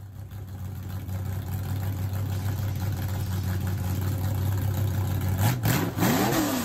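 Intro sound effect of a car engine idling with a steady low rumble. About five and a half seconds in comes a sudden crash, then two quick revs that rise and fall in pitch.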